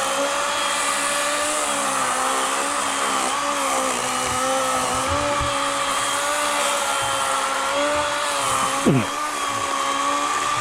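Battery-powered 40-volt Worx WG384.9 electric chainsaw with an 18-inch Oregon bar, running steadily as it cuts through a fallen log, its pitch holding even. About nine seconds in comes a brief sharp sound with a quick falling tone.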